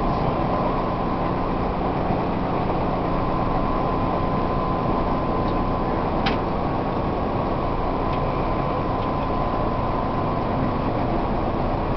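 Steady interior noise of a Tobu 1800 series electric train car, with a faint steady hum. A single brief click about six seconds in.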